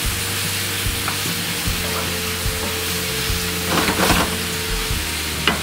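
Chicken, red peppers and cashews sizzling in hot oil in a pan on a gas burner, stirred with a wooden spoon that scrapes the pan now and then, as the cashews brown.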